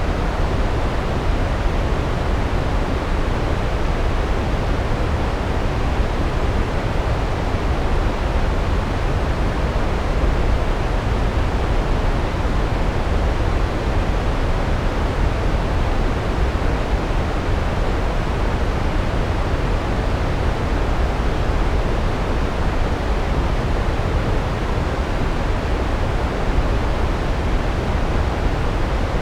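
Large waterfall: a steady, deep rush of falling water with no breaks.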